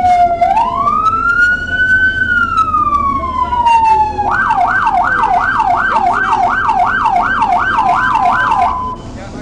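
Police car siren on wail, a slow rise and fall, switching about four seconds in to a fast yelp of roughly three sweeps a second, then cutting off just before the end.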